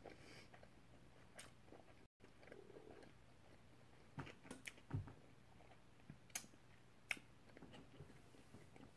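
A person chewing a mouthful of food quietly, with faint, scattered mouth clicks and smacks that come more often and sharper in the second half.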